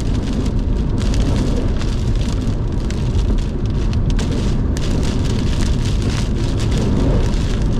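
Wind-driven heavy rain pelting a car, with 70 mph wind gusts buffeting it, heard from inside the cabin as a steady loud rush and low rumble.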